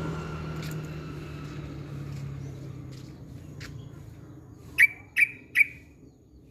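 A low engine hum from something passing fades away, then a bird gives three short, sharp calls in quick succession near the end.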